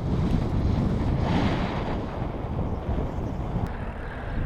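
Wind buffeting the microphone of a camera riding along on a moving bicycle: a gusty, rushing noise, strongest in the low end.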